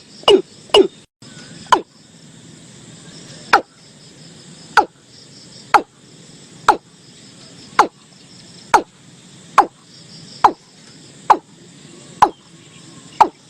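Watercock calling: a series of short, sharp notes, each falling steeply in pitch, two quick ones at the start and then about one a second. Faint insect chirring behind.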